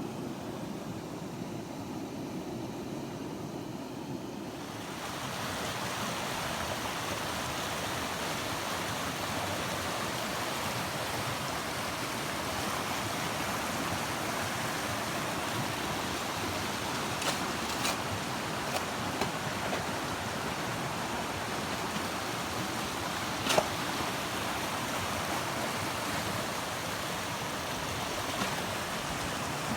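A swollen river rushing steadily, getting louder and brighter about five seconds in. A few short sharp clicks come through it about halfway through, with one louder click about three quarters of the way through.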